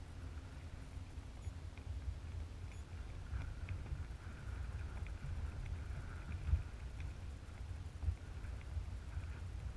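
Wind rumbling on the microphone, with light, scattered water splashes and drips over it.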